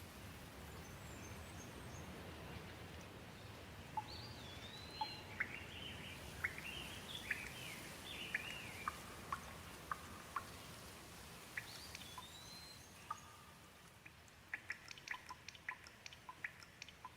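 Gentle rain falling as a faint, even hiss. About four seconds in, a bird starts calling with short chirps and curling whistles, and near the end a quick run of sharp drips ticks over the rain as it eases off.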